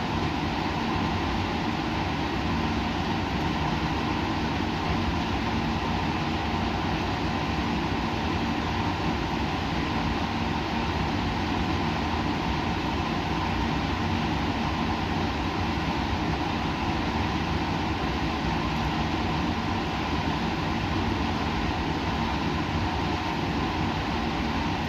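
Steady laboratory background noise: an even rush of air or machinery running continuously, with a low steady hum underneath.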